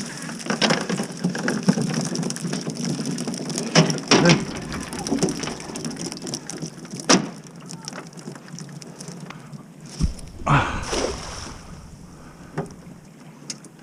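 Handling a cast net and its catch of herring: scattered knocks, clatters and rustles, with a low rumble of wind on the microphone for a couple of seconds near the end.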